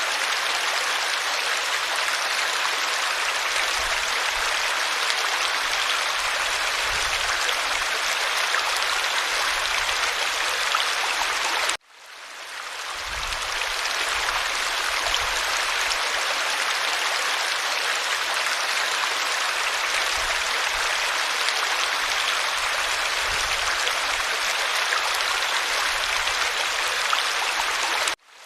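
A creek running: a steady, even rush of flowing water. The sound cuts out suddenly about twelve seconds in and again near the end, each time fading back up over a second or two, like a loop seam in the recording.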